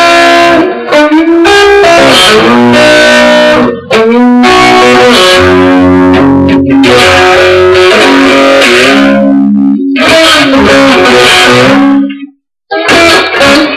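Electric guitar playing an instrumental passage of chords that change about every second, with a brief full stop near the end before it comes back in.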